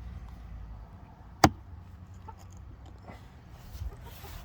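Chickens clucking faintly, with one sharp click or knock about a second and a half in.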